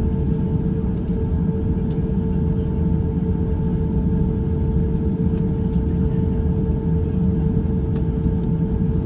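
Cabin noise inside an Airbus A350-900 taxiing: a steady low rumble of the engines and airflow with a constant hum tone, and a few faint light ticks from cabin fittings.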